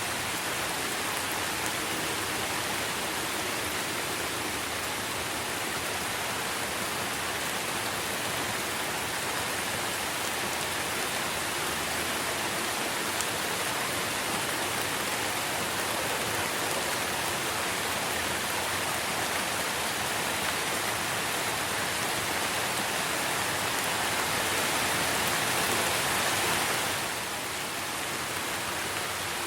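Steady rain falling on trees and foliage, a dense even hiss. It swells a little and then drops suddenly a couple of seconds before the end.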